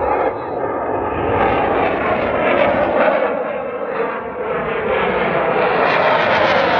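Jet aircraft flying past with a steady, loud engine noise whose pitch slowly falls.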